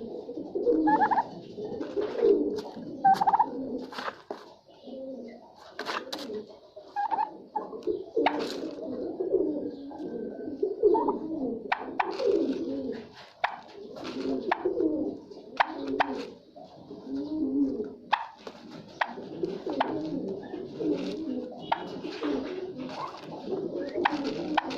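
A group of birds cooing and calling continuously in low warbling notes, with many scattered sharp clicks and taps among them.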